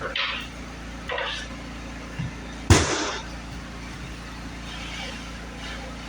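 Floor-installation work noises: brief scraping or rustling, then one sharp knock a little under halfway through, the loudest sound, over a steady low hum.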